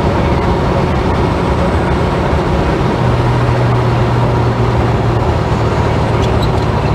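Holden HK sedan cruising on the road, heard from inside the cabin: a steady engine drone mixed with road noise, with a low hum that grows stronger about three seconds in.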